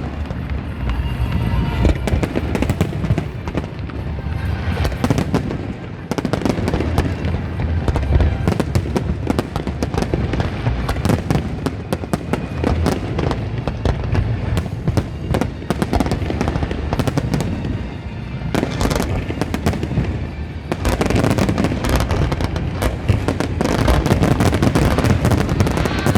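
Fireworks display: a dense, continuous run of bangs and crackles as many shells burst in quick succession, growing louder and busier near the end.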